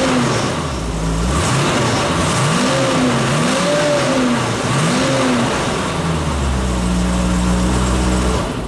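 Mercedes-Benz 350 SLC's 3.5-litre V8 running, with the throttle blipped so the revs rise and fall, once at the start and three or four times in the middle, then settling to a steady idle.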